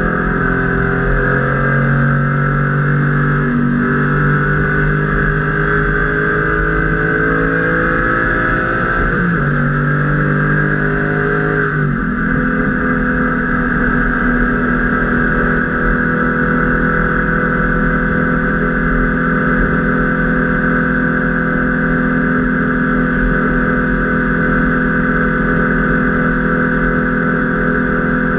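Porsche 993's air-cooled flat-six at full throttle, heard from inside the cabin: revs climb, drop sharply about nine seconds in on an upshift, climb again, then change once more about twelve seconds in and hold a steady high note.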